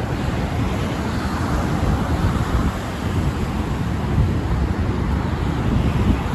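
Wind buffeting the microphone in a snowstorm: a steady, gusty low rumble with hiss.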